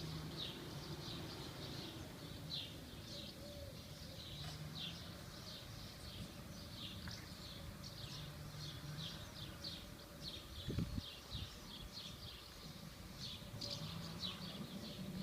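A flock of small birds twittering continuously, many quick high chirps overlapping, from birds flying around and nesting at a church. One brief low bump about eleven seconds in.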